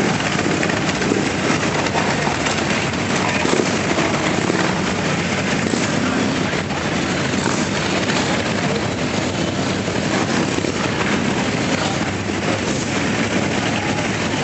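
A steady stream of motorcycles riding past, many of them Harley-Davidsons, their engines and exhausts running together into one continuous loud din.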